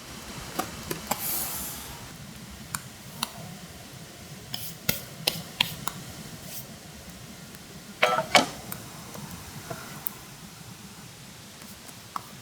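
Scattered light clicks and clinks of hard objects being handled, with a brief hiss near the start and two louder knocks about eight seconds in.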